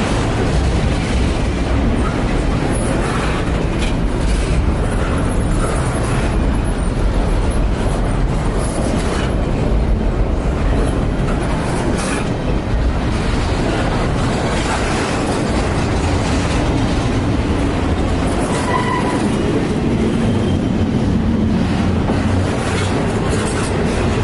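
Double-stack container well cars of a freight train rolling past close by: a steady, loud rumble of steel wheels on rail, with rapid clicking and clattering as the wheel trucks pass.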